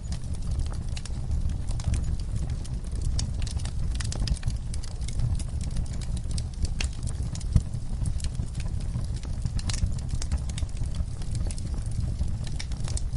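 Fire burning in a fireplace, with a steady low rumble of flames and frequent irregular crackles and pops. One sharper pop comes about seven and a half seconds in.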